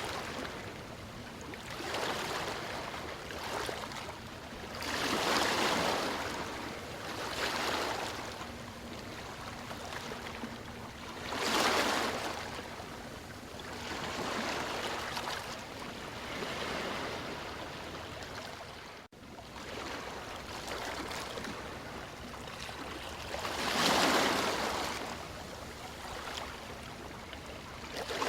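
Ocean waves washing in and drawing back, the surf swelling and fading every few seconds, with three bigger breakers. The sound drops out for a split second about two-thirds of the way through.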